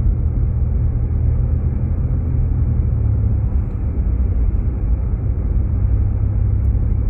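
Steady low road rumble of a Jeep Grand Cherokee heard from inside the cabin while driving: engine and tyre noise with no sudden changes.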